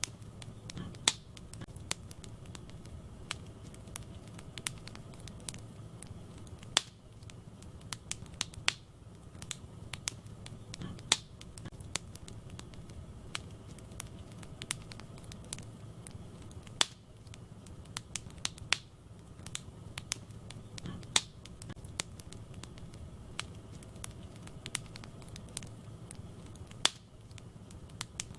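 Wood fire burning in a fireplace: irregular sharp crackles and pops, a few of them louder, over a steady low sound of the flames.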